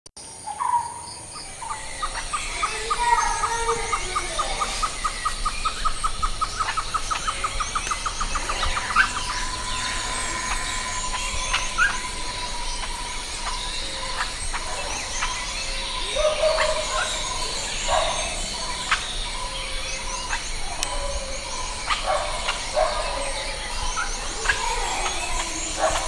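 Birds chirping and calling in the trees, many short calls overlapping. A long run of repeated notes speeds up over the first several seconds and stops about nine seconds in.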